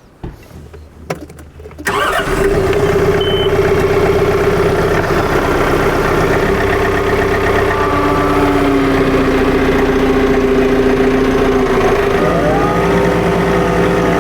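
An engine starts about two seconds in and then runs steadily, with a brief rise in pitch near the end.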